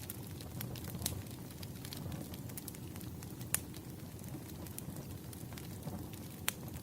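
Burning firewood crackling, with irregular sharp pops over a low steady rumble; the loudest pops come about three and a half seconds in and near the end.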